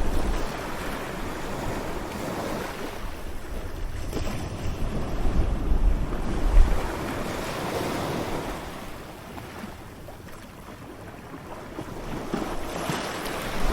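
Ocean surf breaking on a shore, a steady wash of water. It swells to its loudest about halfway through, eases off, then builds again near the end, with low wind rumble on the microphone at the loudest point.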